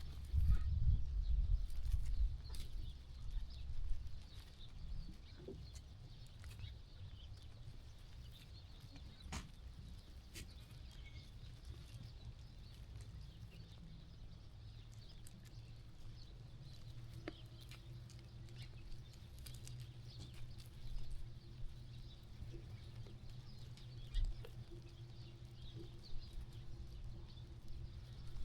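Sheep-farm ambience of sheep moving and grazing: scattered small knocks and rustles over a low rumble that is strongest in the first few seconds, with faint bird calls. A faint steady hum joins a little past halfway.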